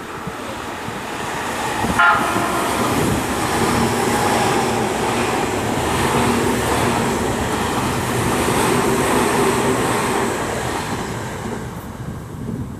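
Tokyu 5050 series electric train passing through a station at speed. A short horn toot sounds about two seconds in, then the steady rush and rumble of wheels on rail as the cars go by, fading near the end.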